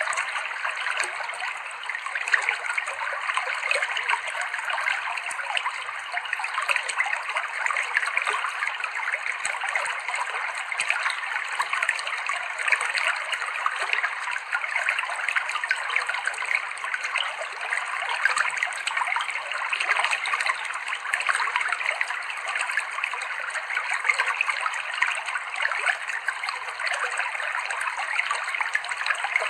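Clear shallow river water flowing and trickling over rocks in a steady, bubbling babble.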